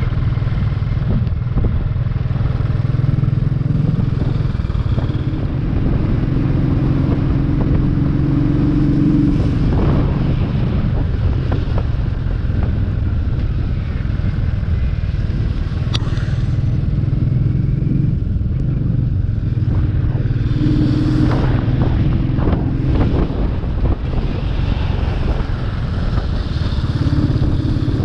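Royal Enfield 350 single-cylinder motorcycle engine running on the move. Its note steps up and down several times as the throttle and gears change, with a few brief knocks and clatters along the way.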